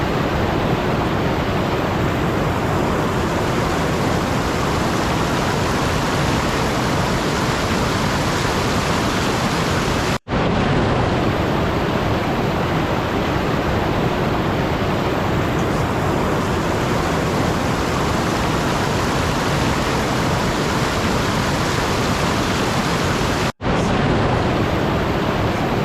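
Steady, even rushing noise spread across all pitches, with no tones or rhythm, cutting out for a split second twice, about ten seconds in and near the end.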